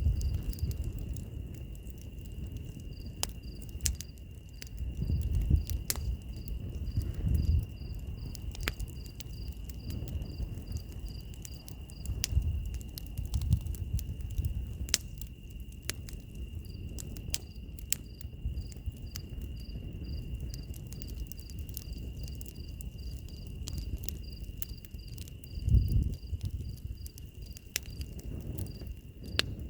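Wood fire crackling and popping, with a low rushing of flame that swells a few times. Over it, insects keep up a steady high trill while a cricket chirps several times a second, pausing for a few seconds around the middle.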